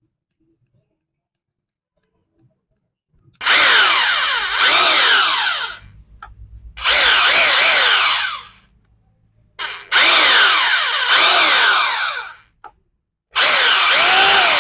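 Bosch GBH 2-26 rotary hammer drill switched on four times in bursts of about two seconds each. The motor note sweeps up and down as it speeds up and slows, a test run of the repaired drill.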